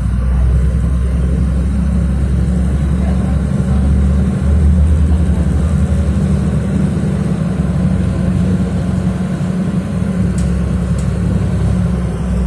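City bus engine running under way, heard from inside the passenger cabin as a loud, steady low drone. Its pitch steps up once about four seconds in.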